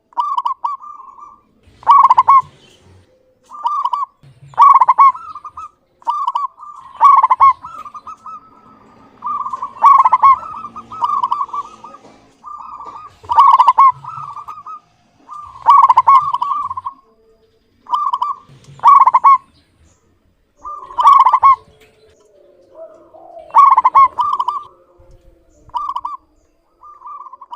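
Zebra dove (perkutut) cooing, repeating its short rolling song phrase every two to three seconds.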